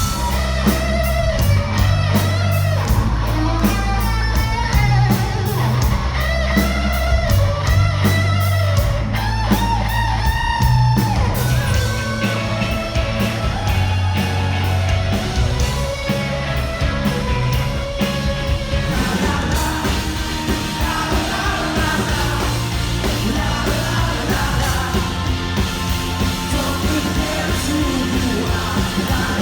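Loud rock music: a singer over electric guitar, bass and a steady drum beat.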